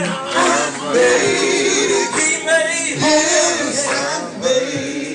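Live gospel music: a male lead singer holding long, sliding notes between lines of the song, over instrumental accompaniment.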